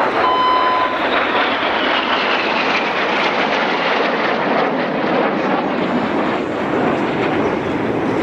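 Jet noise from the Red Arrows' BAE Hawk trainers flying past, a steady rushing engine sound with a whine that falls in pitch over the first few seconds as they go by.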